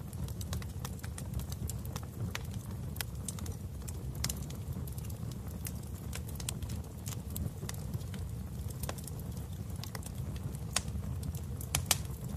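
Wood fire in a fireplace crackling: a steady low rumble of the flames with irregular sharp pops, a few louder pops together near the end.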